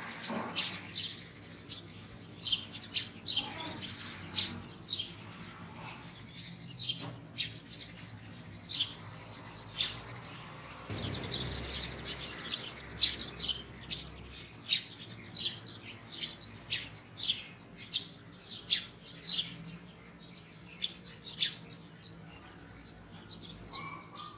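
Small birds chirping: many short, sharp, high chirps, one or two a second. A brief low rumble rises in the background about halfway through.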